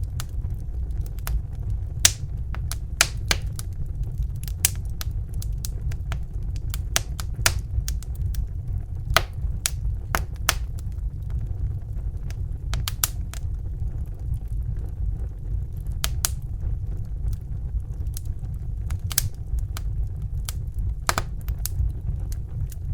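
Crackling fire: irregular sharp pops and snaps, a few a second at uneven spacing, over a steady low rumble.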